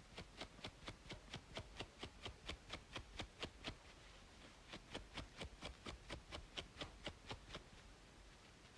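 Rhythmic scratching on a braided scalp, short crisp strokes at about four a second, with a pause of about a second midway, over a steady background of white noise.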